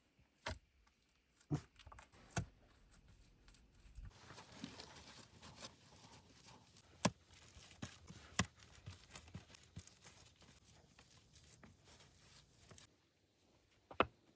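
A few sharp knocks or snaps, then several seconds of rustling and crackling with scattered clicks, ending with one more sharp knock.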